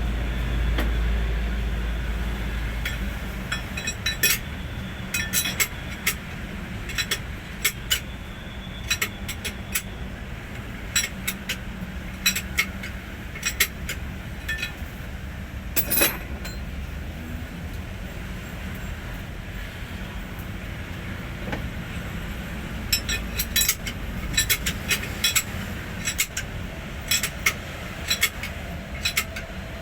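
Metal hand tools clinking and tapping at irregular intervals, in loose clusters. A low vehicle rumble fades out over the first few seconds.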